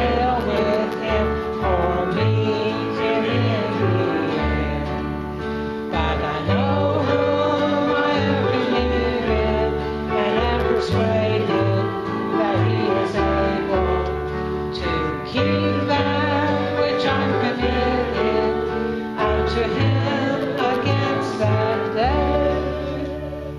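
Worship song in a church service: singing over strummed guitar and low bass notes, fading out at the end.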